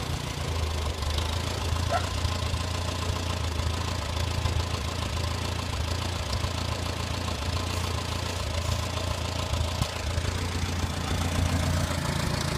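Farmall A tractor's four-cylinder engine idling steadily.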